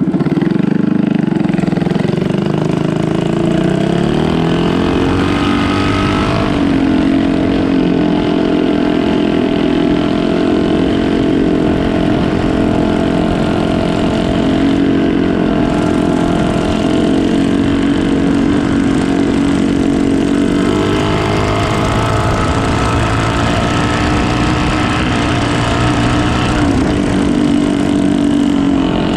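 Canal boat's engine running loud and steady. Its pitch rises over the first few seconds as it speeds up, then holds.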